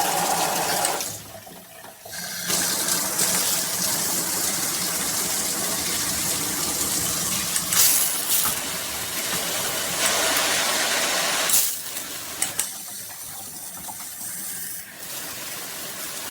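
Water spraying from a HOPOPRO nine-setting fixed shower head, a steady hiss that drops away briefly about a second in and again for a couple of seconds in the second half.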